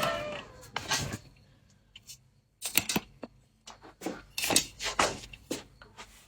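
Humidifier frost crunching as it is bitten and chewed: a string of short, crisp crunches at irregular intervals, with quiet gaps between them.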